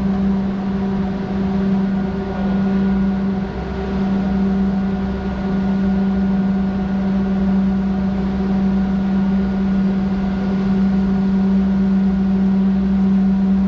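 Steady machine hum of an aerial tram, holding one pitch with a stack of overtones over a low rumble.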